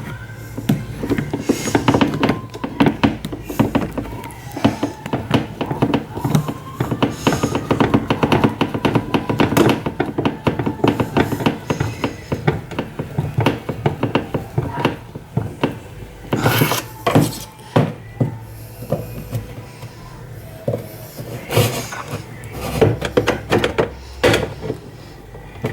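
Hand work on washing machine parts: rapid scraping and rubbing with many quick clicks and knocks, and a few louder knocks about two-thirds of the way in.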